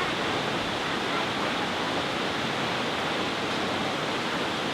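Steady rushing of falling water from Nachi Falls, a waterfall with a 133-metre drop.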